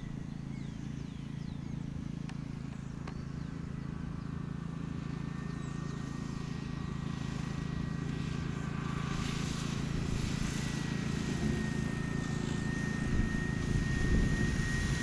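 Electric motor and propeller of a radio-control model plane whining in flight, one thin high tone that gets louder and drops slightly in pitch near the end as the plane comes closer. Strong wind rumbles on the microphone underneath.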